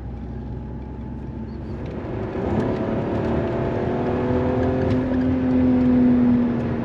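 Car engine pulling under acceleration: steady at first, then louder from about two seconds in, its note climbing slowly for about four seconds before easing off at the end. The driver says the whole car vibrates when accelerated and points to the engine mounts among other things.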